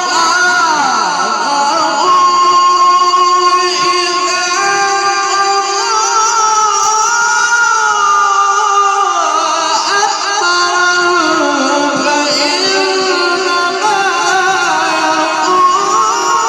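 A male Quran reciter's voice drawing out a long, ornamented melodic phrase in tajweed style, the pitch gliding and turning without a break, amplified through a sound system.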